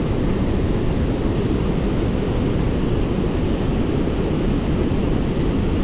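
Waterfall on a creek in flood, a loud steady deep rush of falling water.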